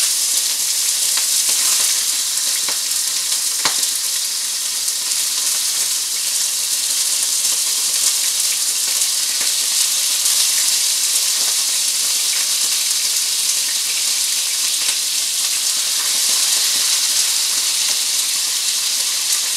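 Pork chops sizzling steadily as they fry in hot vegetable shortening in a frying pan, a loud, even hiss. There are a few light knocks, the sharpest about four seconds in.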